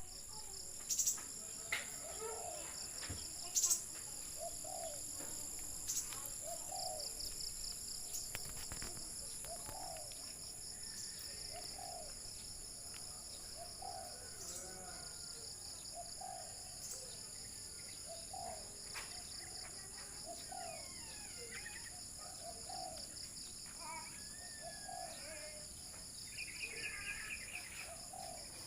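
Spotted dove (terkukur) cooing: low, soft phrases repeated every second or two. Steady high insect buzzing runs underneath, with a few sharp clicks in the first few seconds and other small birds chirping near the end.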